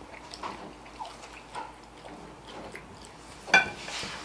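Close-up eating sounds of people chewing barbecued ribs: small wet mouth clicks and chews, with one sharp click near the end.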